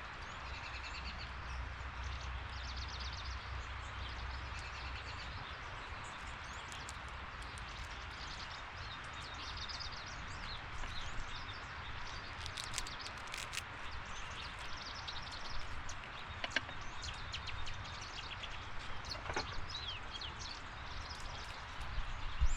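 Small birds chirping and giving short trills again and again over a steady hiss of background noise, with a few sharp clicks in the second half.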